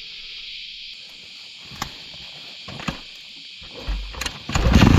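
Steady high drone of insects in hot forest, with a few sharp clicks, then about four and a half seconds in a Honda XR650R's single-cylinder engine starts up and runs loudly with an even pulsing beat.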